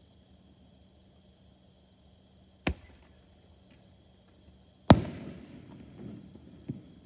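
Fireworks shells bursting overhead: one sharp bang, then a louder bang about two seconds later that rumbles and echoes away for over a second, and a smaller crack near the end. Insects chirr steadily underneath.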